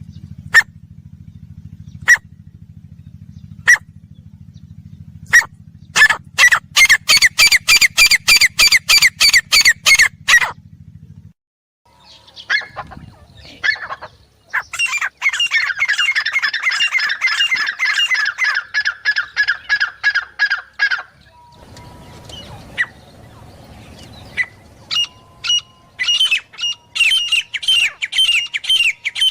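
Grey francolin calling: a few spaced single notes that quicken into fast, harsh runs of about four calls a second, broken by short pauses and starting again. A low steady hum lies under the first third and stops suddenly.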